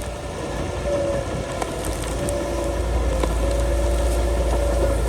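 Komatsu bulldozer running, its engine a steady low rumble that grows stronger about halfway through, with a wavering high squeal on and off above it.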